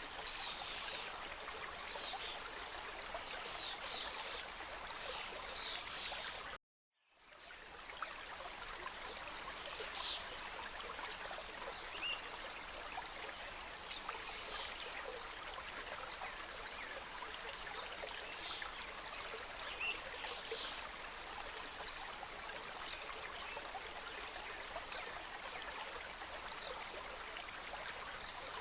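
Forest mountain stream flowing steadily over rocks, with small birds chirping now and then above the rush of water. The sound cuts out completely for about half a second roughly a quarter of the way in, then fades back up.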